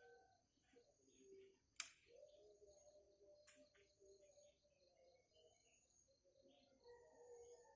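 Faint bird calls: low wavering notes and scattered short chirps, with a sharp click about two seconds in.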